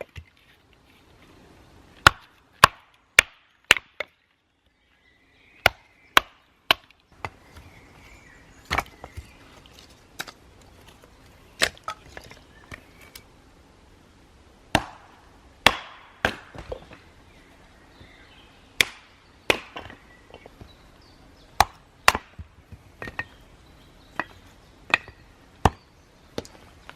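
Firewood being chopped and split by hand: a string of sharp, irregular strikes of a blade into wood, roughly one a second.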